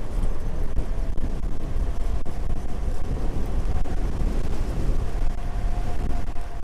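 Strong wind buffeting the microphone while riding an electric moped, a dense gusty rumble, with the faint steady whine of the moped's electric hub motor drifting slowly higher in pitch.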